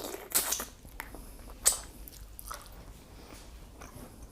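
Close-up eating sounds: wet chewing and squishing of shrimp and pasta, with a sharp click about a second and a half in and a few softer ones after.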